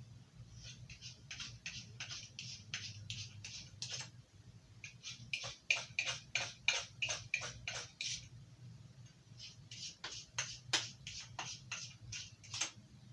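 Knife blade stroked across a ceramic sharpener: quick, even scraping strokes about three a second, in three runs with brief pauses between them, as the blade is honed after the Arkansas stone.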